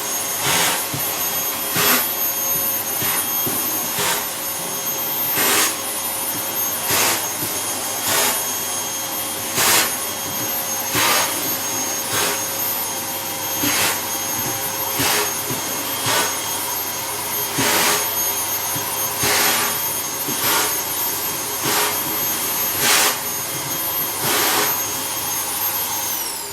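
Vacuum cleaner running steadily with a high whine, broken by short knocks or clatters about once a second. Near the end it is switched off and its whine falls away.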